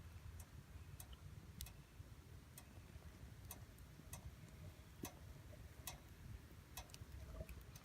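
Campfire wood crackling faintly: scattered sharp pops and snaps at irregular intervals, one or two a second, over a faint low rumble.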